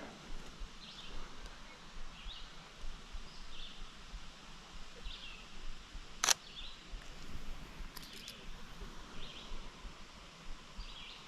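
A small bird chirping with short calls about once a second, and one sharp Sony A7 III shutter click a little past halfway, followed by a pair of fainter clicks about two seconds later.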